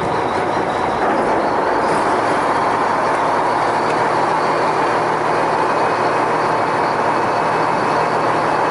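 A fishing boat's engine running steadily under way, a constant low hum beneath a loud, even rushing noise.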